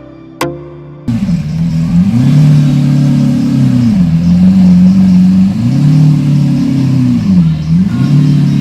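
Car engine being revved, its pitch rising and falling about three times and held at the higher revs for a second or two each time.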